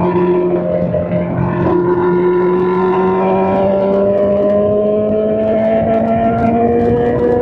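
Straight-piped Honda CBR600 inline-four running hard under acceleration, its pitch climbing slowly and steadily, with a brief break about a second and a half in.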